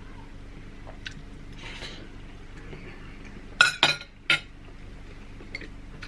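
Cutlery and dishes clinking at a meal: three sharp clinks in quick succession a little past halfway, with a few fainter taps around them.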